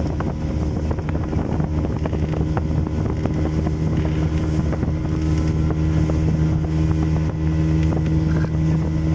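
A motorboat's engine running at a steady speed, heard from on board, its low drone holding an even pitch throughout.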